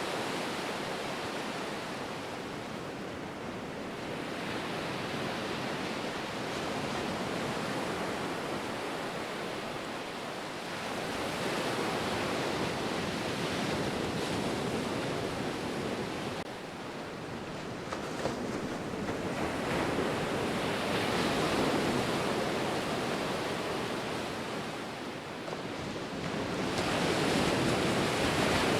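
Ocean surf: a continuous rush of breaking waves that swells and eases every several seconds.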